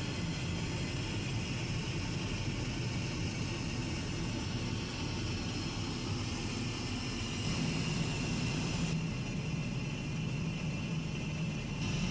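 Steady cabin noise of an Airbus A380 in flight: the even rush of air and engines with a low hum underneath. The high hiss dulls for a few seconds about nine seconds in.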